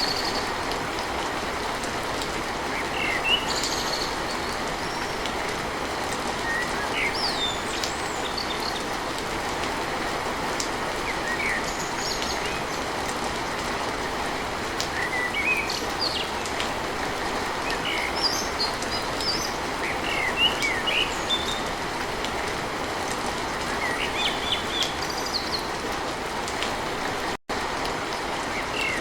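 Steady rain on a tin roof, with songbirds chirping in short bursts throughout. The sound drops out for an instant near the end.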